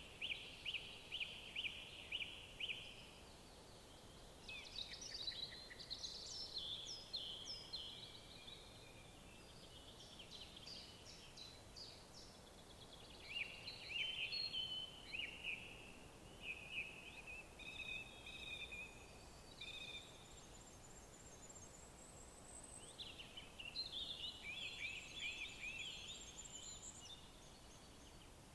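Small songbirds singing: phrases of quick high notes and trills that come every few seconds, over faint steady background noise.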